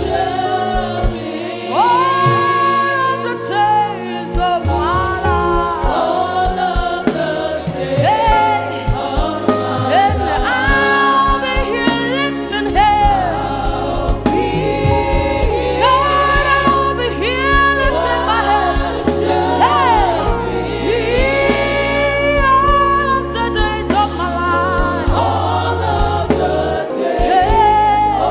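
Live gospel worship music: a lead singer and choir singing over band accompaniment, with sustained chords and a steady bass line.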